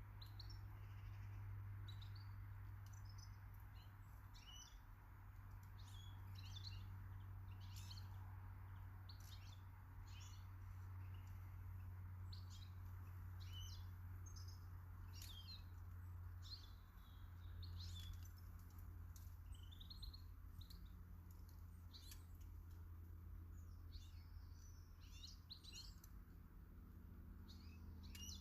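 Small garden birds chirping, many short high calls scattered throughout, over a faint steady low hum.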